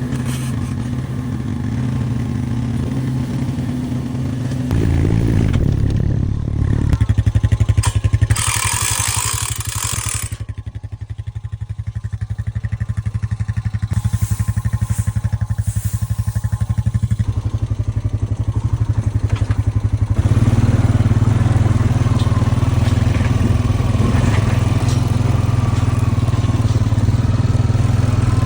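Small petrol vehicle engine running steadily with some clatter. About a third of the way in, a loud rushing hiss lasts about two seconds, and the engine grows louder again in the last third.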